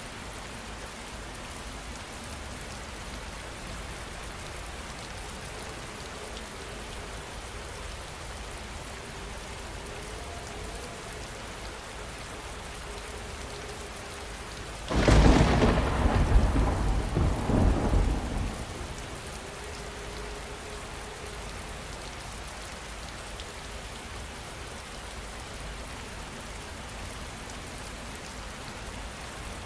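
Steady heavy rain falling, with one sharp, loud thunderclap about halfway through that rumbles on for a few seconds before fading back into the rain.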